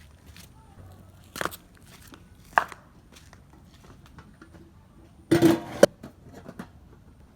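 Objects being handled during household chores: a few separate sharp knocks, then, about five seconds in, a brief louder clatter ending in a sharp click.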